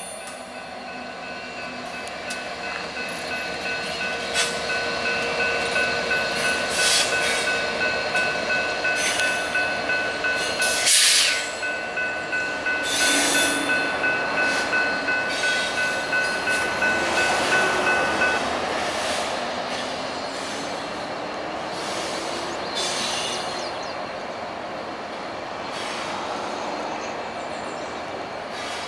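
Freight train hauled by Canadian Pacific diesel locomotives rolling past, its wheels running on the rails with scattered sharp clanks, the loudest about a third of the way in. A steady high ringing tone sounds over it and stops about two-thirds of the way through.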